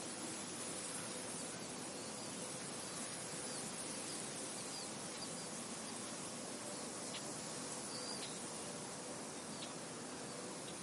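Soft wind blowing across a field as a steady hiss, with short high bird chirps now and then, several of them in the second half.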